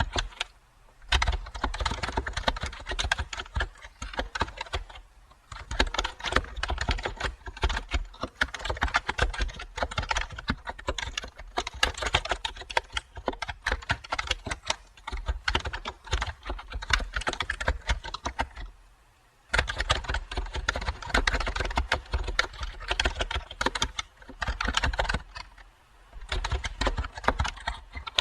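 Typing on a computer keyboard: fast, continuous runs of keystroke clicks broken by a few short pauses.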